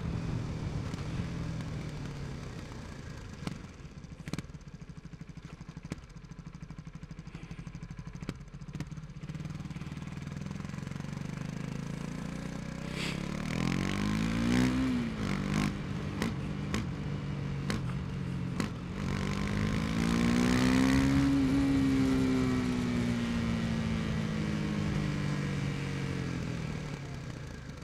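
KTM 250 Duke's single-cylinder engine under way. It slows at first, then is revved up twice with a rising pitch. The first rise drops off suddenly; the second falls away slowly as the bike decelerates. A few sharp clicks come around the middle.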